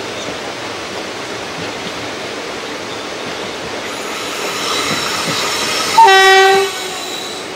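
Passenger train of ICF coaches running on the rails with a steady rumble and rattle. Near the end a locomotive horn sounds one short, loud blast.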